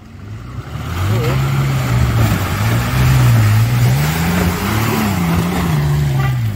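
Off-road 4x4's engine revving under load as it drives slowly through an off-road obstacle, building up about a second in, its pitch rising and falling with the throttle over a steady rushing noise.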